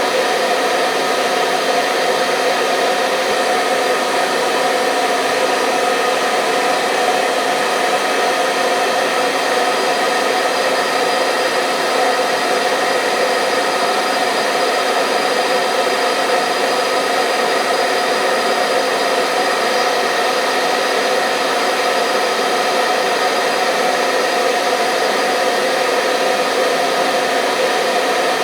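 Hair dryer running steadily: a continuous blowing hiss with a faint motor hum, unchanging throughout.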